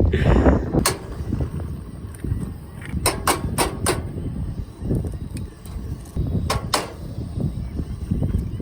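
Wind buffeting the microphone with a steady low rumble, over sharp clicks and knocks from cooking gear being handled: one about a second in, a quick run of four about three seconds in, and two more near the end.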